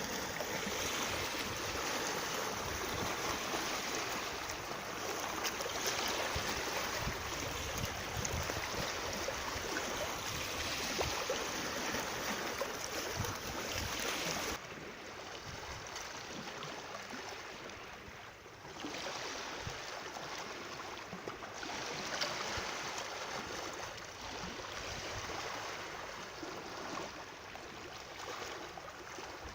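Steady rushing of moving water, with no pitched sounds in it. About halfway through it becomes softer and duller and stays that way.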